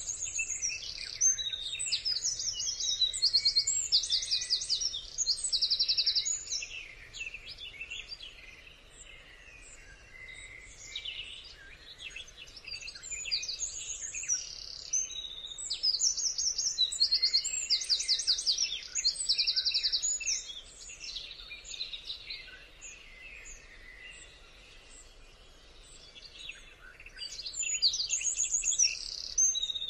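Songbirds chirping and singing, with fast high trills, in bouts separated by quieter lulls of a few seconds.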